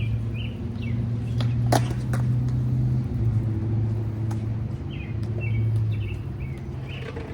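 A steady low hum like an idling engine, with birds chirping twice and a few sharp clacks, the loudest about a second and a half in.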